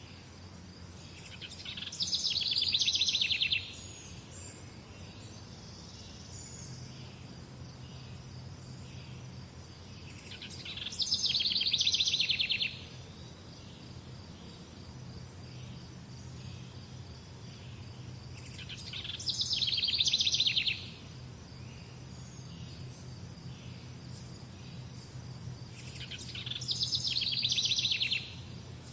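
A songbird repeating a fast trilled song about every eight seconds, four times. Each phrase swells over about two seconds and then stops abruptly. Fainter chirps come in between, over a steady low hum.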